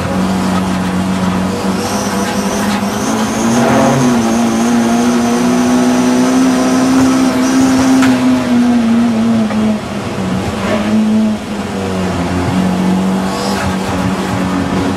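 Audi TT race car's engine running hard at racing speed, its pitch climbing slowly over the first few seconds, holding, then falling back, with two short drops in level in the second half.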